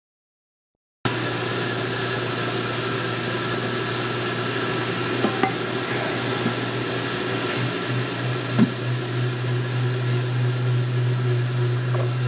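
Steady machine-shop noise from a lathe turning a large shaft, with a strong low hum and a few faint clicks. It cuts in suddenly about a second in, and the hum wavers slightly in the second half.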